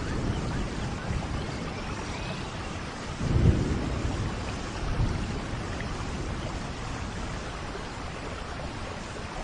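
Steady rain with thunder rumbling low: a louder rumble swells about three and a half seconds in, and a smaller one comes about a second and a half later.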